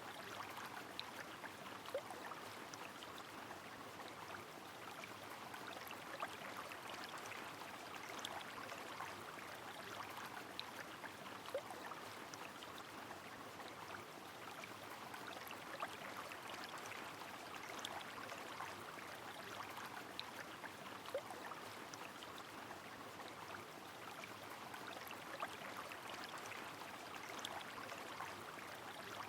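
Rain falling over a flowing river: a steady, soft rush of water with scattered small drips and plinks.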